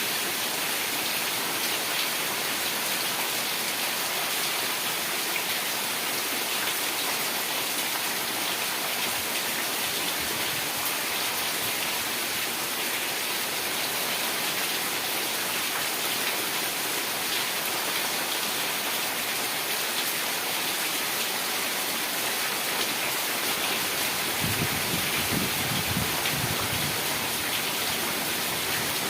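Heavy rain falling steadily, a dense even hiss of drops on surfaces, with a brief low rumble near the end.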